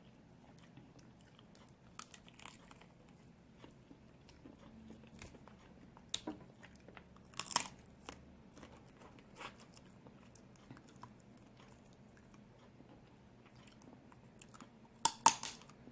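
Snow crab leg shells cracking, with chewing and small clicks in between; the sharpest cracks come about halfway through and again near the end.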